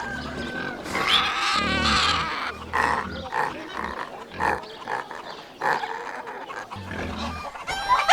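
Pigs grunting, with several short squeals among irregular, uneven calls.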